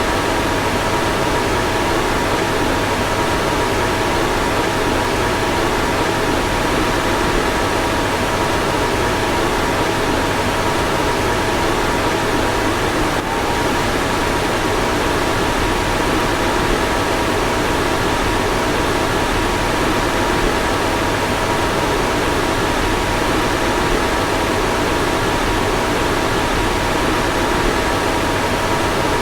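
A car's fan running steadily: an even rushing hiss with two faint steady hum tones under it, and a brief dip about thirteen seconds in.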